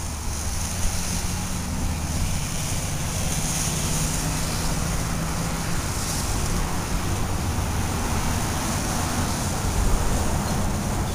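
Wind rumbling on the microphone outdoors, with a steady low hum underneath and a high hiss.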